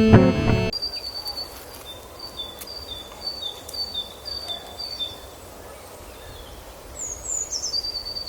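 Guitar music stops just under a second in, leaving a soft outdoor background hiss. Over it a songbird repeats a high two-note call, alternating higher and lower notes about twice a second for a few seconds. Near the end come a few quick falling whistles and a held high note.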